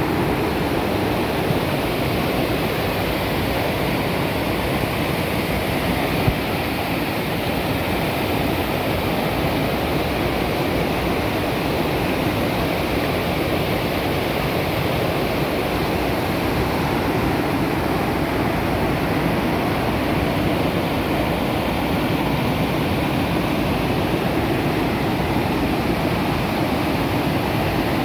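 Waterfall cascading, a steady loud rush of falling water.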